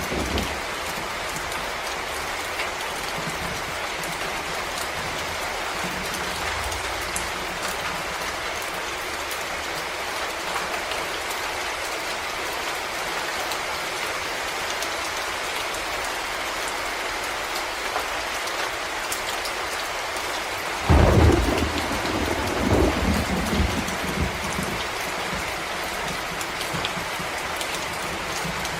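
Steady rain falling on forest leaves and ground. About two-thirds of the way in, a sudden clap of thunder rumbles on for a few seconds before fading back into the rain.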